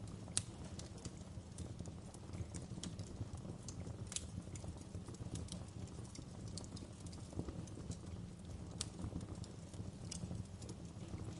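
Wood fire crackling in a fireplace: a steady low rumble of flames with irregular sharp pops and snaps from the burning logs, the loudest pop about half a second in.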